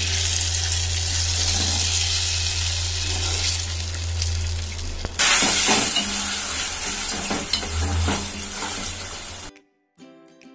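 Hot oil tempering sizzling and spitting as red chilli and tamarind pickle paste is added to it and stirred through with a steel spoon. The sizzle gets louder about five seconds in. It cuts off suddenly near the end, where quiet plucked-string background music takes over.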